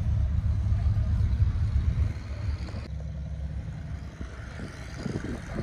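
Low rumble of a vehicle engine running, dropping in level about two seconds in.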